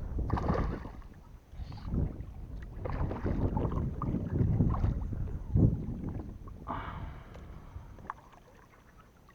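Irregular splashing and knocks on a fishing kayak as a hooked oscar is landed, with the sharpest knock a little past halfway and the noise dying away near the end.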